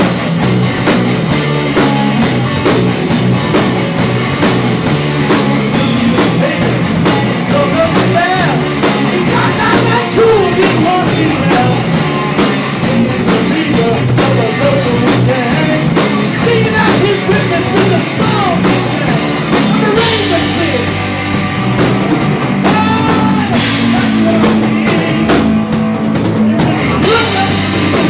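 Live rock band playing an instrumental passage: drum kit, bass and electric guitars, with a melodic line bending up and down in pitch over the top. The arrangement changes about twenty seconds in.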